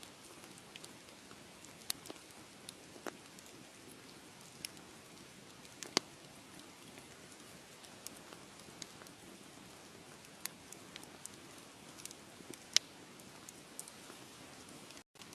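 Wood fire crackling in a fireplace: a steady soft hiss with irregular sharp pops, the loudest about six seconds in and near thirteen seconds. The sound cuts out for an instant near the end.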